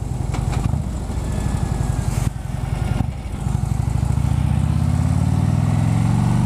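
Harley-Davidson V-twin engine of a 2011 Electra Glide, heard through Screaming Eagle slip-on mufflers, running under way. It eases off briefly a little over two seconds in, then pulls harder and gets louder, its pitch rising steadily as the bike accelerates onto the highway.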